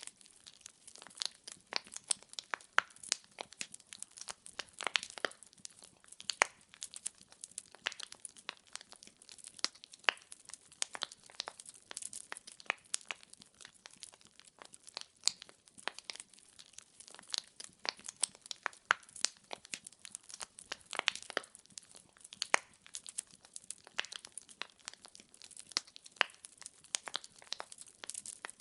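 Burning firewood crackling, with sharp irregular pops several times a second over a soft hiss of flame.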